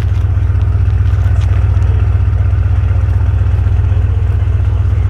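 Rolls-Royce twin-turbo V12 engine running steadily at idle, a loud, even low drone.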